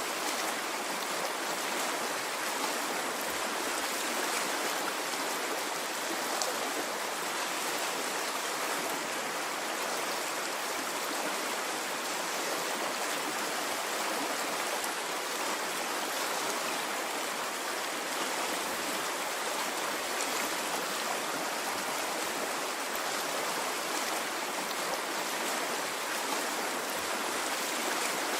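Water flowing in a stream: a steady, even rush with no rise and fall of waves.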